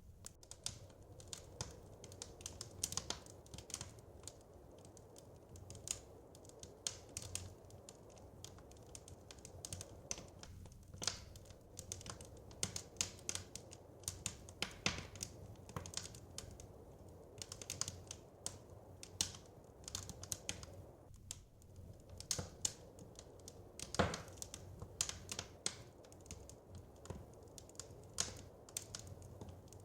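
Wood fire crackling in a fireplace: irregular sharp pops and snaps, a few a second with an occasional louder one, over a steady low rumble.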